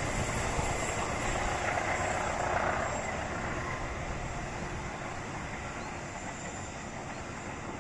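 Passenger train's coaches rolling away on the rails, a steady rumble that fades as the train recedes around the curve.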